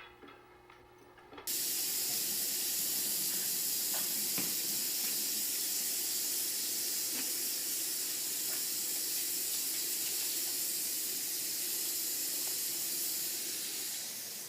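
Tap water running steadily into a sink, starting suddenly about a second and a half in, then shut off near the end.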